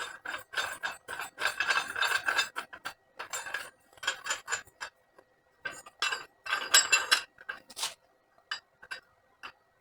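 Irregular metallic clinks and rattles of small metal parts being handled. They come thick and fast for the first few seconds, thin out, bunch up again past the middle, and end with a few scattered clicks.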